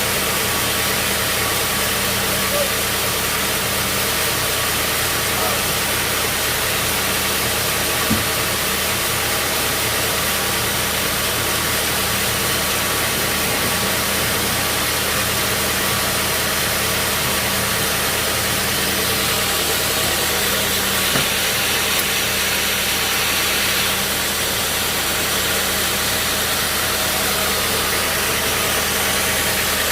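Sawmill engine running steadily at a constant speed, with an even hum and a hiss. There is a faint knock about 8 seconds in and another about 21 seconds in.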